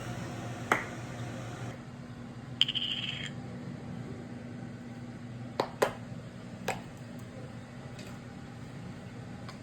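Scattered sharp clinks and knocks of kitchen utensils and dishes, about five in all, one of them ringing briefly, over a steady low hum.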